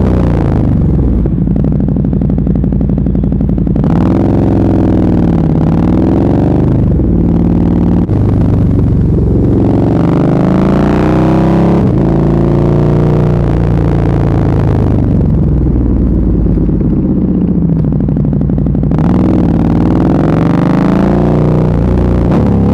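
Sport motorcycle engine with an SC-Project aftermarket exhaust, loud, revving up and dropping back again and again as the bike accelerates and slows through the gears while riding. There is a sharp drop in revs about eight seconds in.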